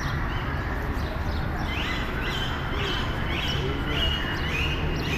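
Small birds chirping, with a quick series of repeated short calls starting about two seconds in, over a steady low background rumble.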